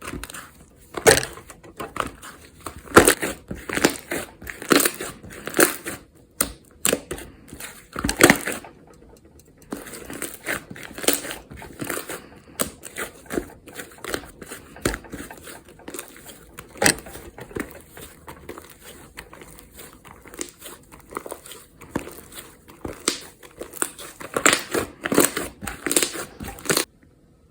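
Slime being squeezed and pressed by hand, giving a dense, irregular run of crackling, crunchy pops and clicks with short pauses; it stops suddenly near the end.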